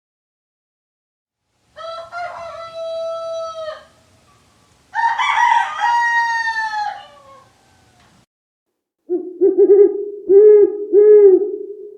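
A rooster crowing twice, each crow about two seconds long, the second trailing off downward. About nine seconds in a different, louder animal call begins, held on one steady low pitch with three pulsing notes.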